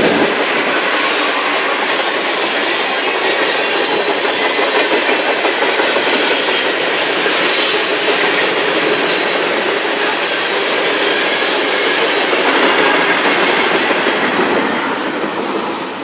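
Freight cars of a CN manifest train, tank cars and covered hoppers, rolling past: a steady wheel-on-rail roar with clickety-clack, and brief high wheel squeals in the first half. The noise eases off near the end.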